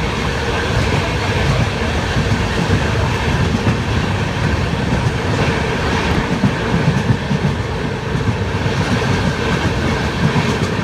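Passenger express train running, heard from on board: a steady, loud noise of the coach's wheels on the rails.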